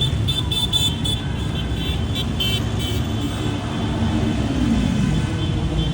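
Motorcycle engines running in a steady low rumble, with a string of short high-pitched toots over the first two or three seconds and an engine rising and falling in pitch about four seconds in.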